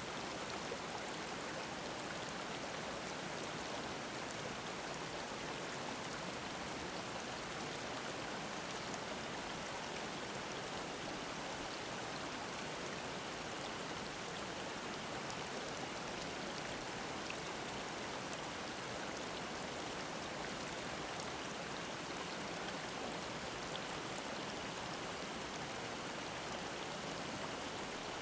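Mountain stream babbling: a steady, even rush of running water.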